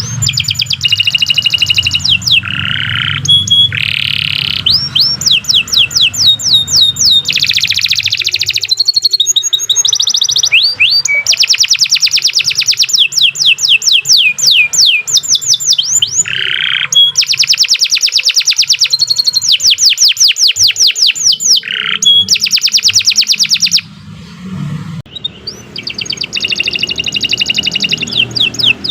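Domestic canary singing a long, continuous song made of fast trills: rapid series of repeated sweeping notes, each series switching to another, with short breaks and a quieter pause about two-thirds of the way through before the singing resumes.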